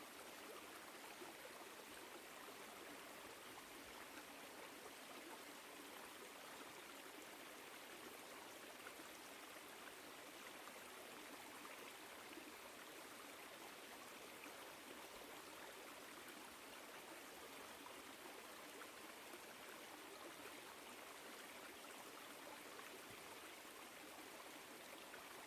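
Small woodland stream flowing over rocks: a faint, steady rushing of water.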